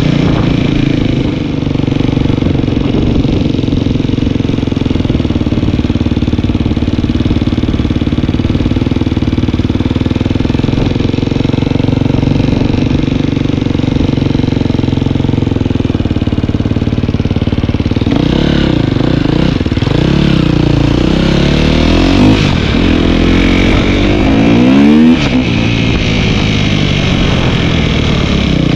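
Dirt bike engine running steadily under way, then revving up and down several times before settling back to a steady run.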